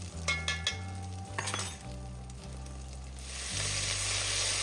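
A metal spoon clinks and scrapes a few times in an enamelled cast-iron Dutch oven. About three seconds in, a steady sizzle rises as tomato paste is stirred into the hot oil to cook it off.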